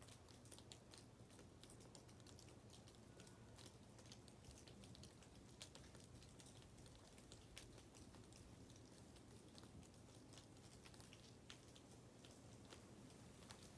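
Faint, irregular ticking and pattering, like blowing snow or ice grains striking surfaces in a blizzard, over a low steady hum.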